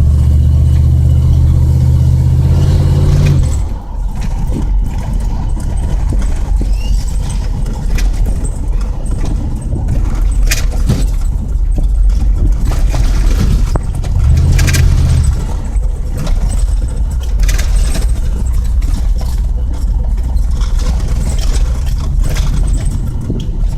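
Truck engine running through a dual exhaust with catalytic converters and no mufflers. It is held at higher revs for about three seconds, then drops back to a lower, rougher drone, with a second brief rise in revs about 14 seconds in.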